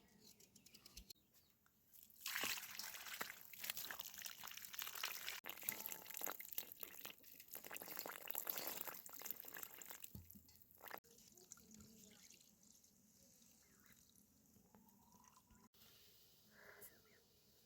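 Liquid splashing and dripping, busiest for several seconds from about two seconds in, then dying down to faint drips.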